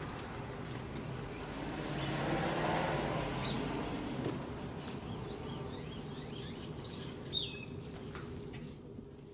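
A steady motor hum that swells for a second or two about two seconds in, then settles. Birds chirp several times in the second half, with one sharp chirp near the end.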